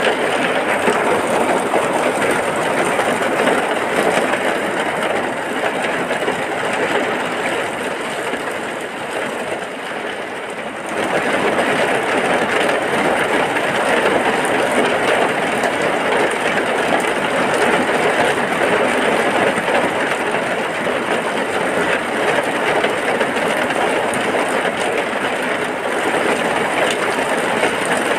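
Heavy rain pouring in a dense, steady hiss. It eases slightly for a few seconds and then comes back at full strength abruptly about eleven seconds in.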